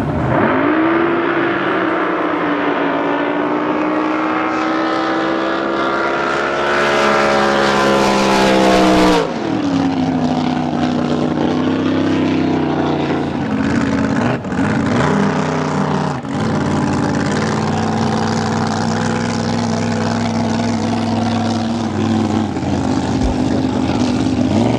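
Racing drag boat engine running at full throttle, its pitch climbing steadily for about nine seconds before the sound drops suddenly. A lower, steadier engine note follows, with another quick rise in pitch near the end.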